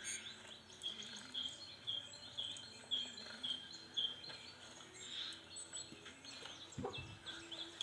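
Small songbirds chirping, one repeating a short slurred chirp about twice a second through the first half, with other twittering notes higher up. A brief low thump about seven seconds in.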